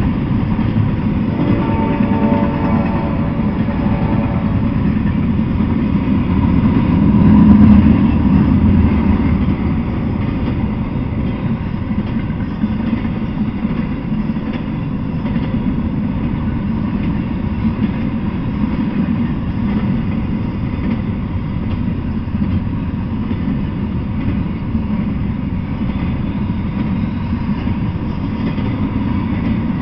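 Double-stack intermodal freight train rolling past: a steady rumble of wheels on rail, swelling about seven seconds in. A faint pitched whine sounds during the first few seconds.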